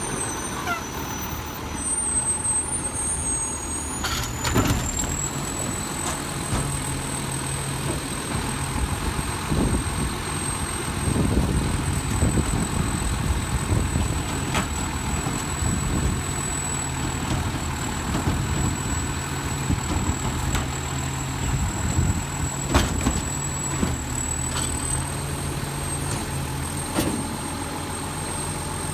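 Garbage truck's diesel engine running steadily, with a few sharp knocks or clangs and a thin high whine.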